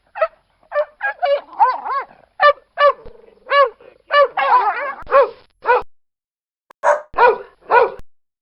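A dog barking: a quick run of short barks, a pause of about a second, then three more barks near the end.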